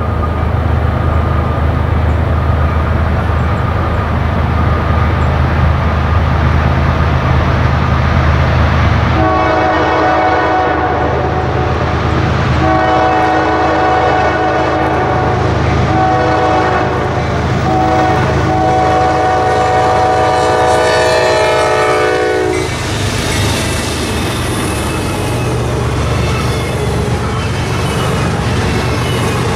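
CSX intermodal freight train's diesel locomotives approaching with a deep, steady rumble. They then sound a multi-chime air horn in four blasts, long, long, short, long: the grade-crossing signal. In the last few seconds the locomotives and double-stack container cars pass close by with wheel and rail noise.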